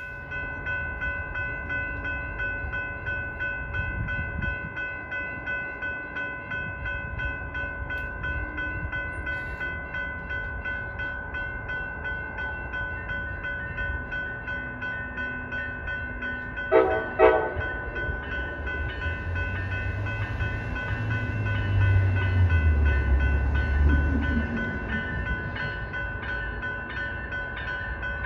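A railway bell rings steadily in a fast, even rhythm as a train approaches. About 17 seconds in the train horn gives two short taps, a double-tap salute, and then the low rumble of the train swells and eases off as it goes by.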